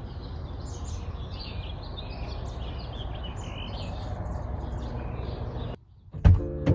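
Outdoor ambience: small birds chirping over a steady low rumble. It cuts out abruptly near the end, and music comes back in with a sharp hit.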